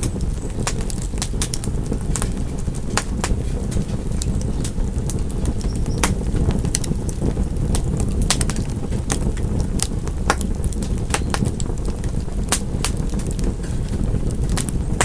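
Wood fire crackling: irregular sharp snaps and pops over a steady low rumble of burning flames.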